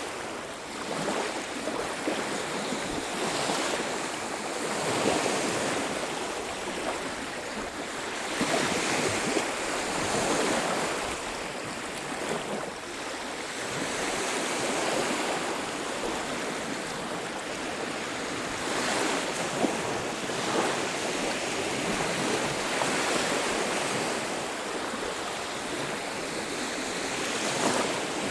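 Sea surf on a beach: waves breaking and washing up the shore, the rushing water swelling and easing every few seconds.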